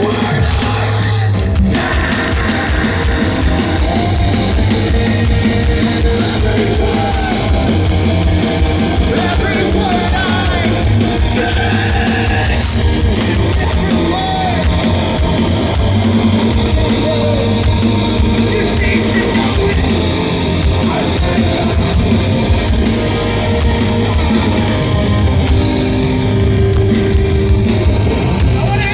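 Heavy rock band playing live at a loud, steady level, with distorted electric guitars and a full drum kit.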